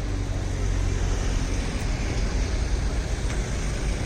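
A boat's engine running steadily: a low, even drone under a constant rushing noise.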